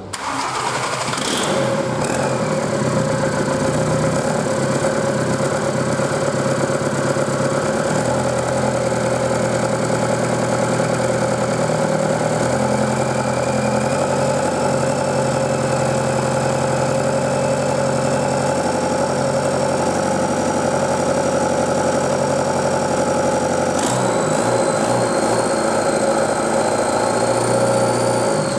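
Volkswagen 1.9 TDI (AXR) four-cylinder turbodiesel engine, run on a test stand, idling steadily just after it catches. Near the end there is a brief click and its note shifts slightly.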